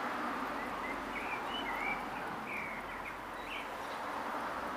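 A bird chirping in a quick run of short high calls for about two and a half seconds, over steady outdoor background noise.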